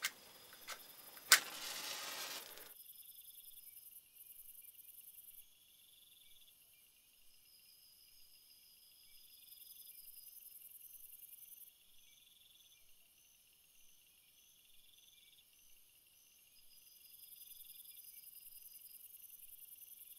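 A few sharp knocks in the first second and a half, the last and loudest followed by about a second of rustling noise. Then crickets chirp in steady, pulsing high trills, several overlapping.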